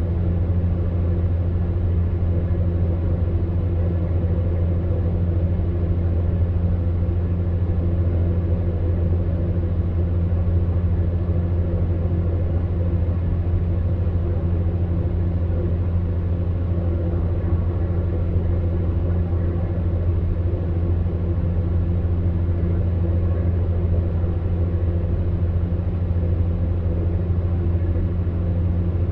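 Electric fan heater running: a steady low hum with a soft rush of air over it, unchanging.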